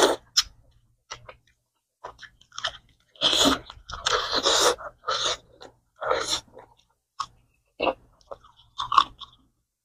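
A person chewing food close to the microphone, mukbang-style, with irregular crunchy bites that are densest and loudest a few seconds in. The food is a dish of chicken cooked with pineapple.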